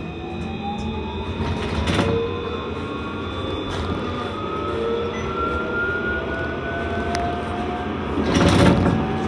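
C Class tram under way, with a low running rumble and its traction motors whining steadily upward in pitch as it gathers speed. Wheels knock over rail joints a few times, with a louder clatter near the end.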